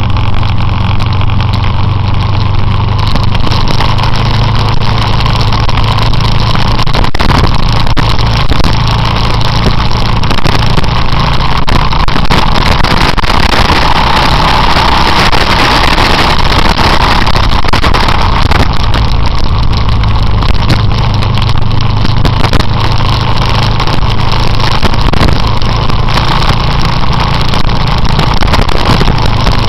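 Motorcycle engine running steadily while riding, with a constant rushing noise over it that grows a little louder near the middle.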